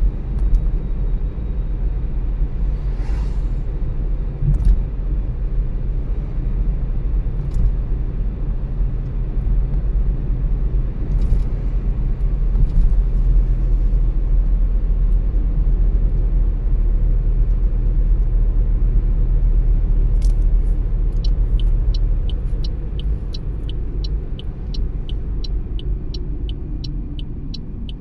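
Car driving, heard from inside the cabin: a steady low rumble of engine and road noise. About three quarters of the way through, the rumble eases and a turn-signal indicator starts ticking evenly, about two ticks a second.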